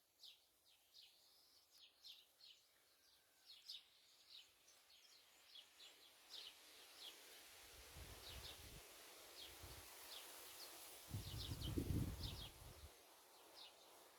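Small birds chirping faintly, many short, high calls in a quick, irregular string. A low rumble comes in about eight seconds in, and a louder one near the end.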